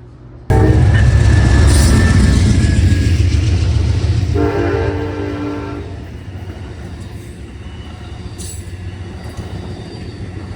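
Loud low rumble that starts suddenly, with a long chord-like horn blast of about a second and a half near the middle.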